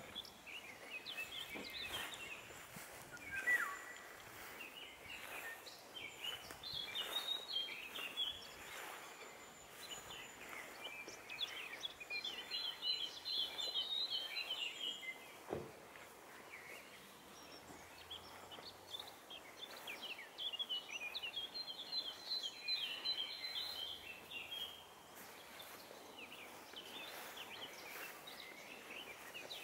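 Songbirds singing outdoors: several bouts of quick, high chirping phrases come and go over a faint steady background hiss.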